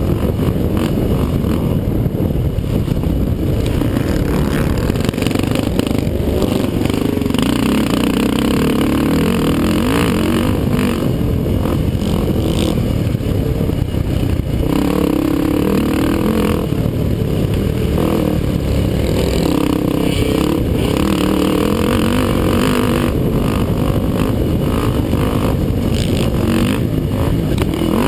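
ATV (quad) engines running hard through a motocross race, the engine note rising and falling again and again as the riders throttle on and off.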